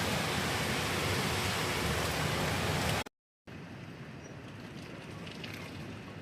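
Hurricane rain and wind making a loud, steady rush. It cuts off suddenly about three seconds in, and after a brief gap a quieter rush of rain and wind carries on with a few faint ticks.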